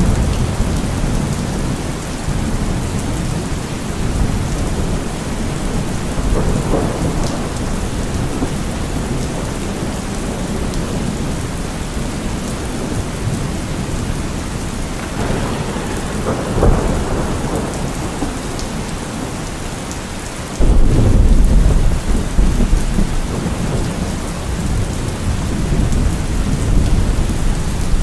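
Steady heavy rain with rolling thunder rumbling underneath. A loud low thunder rumble starts suddenly about two-thirds of the way through and carries on to the end.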